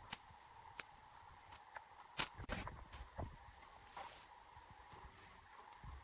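A few sharp taps and knocks at irregular intervals, the loudest a little over two seconds in.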